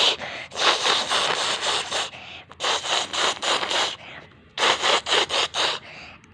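Rough scraping and rubbing against a surface in several spells, the last a run of quick strokes about five a second.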